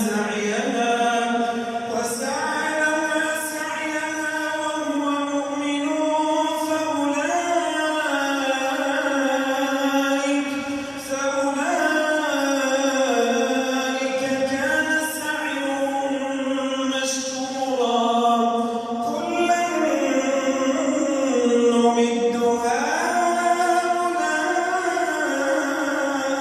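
A man's voice chanting in long, ornamented held notes, amplified through a mosque's sound system.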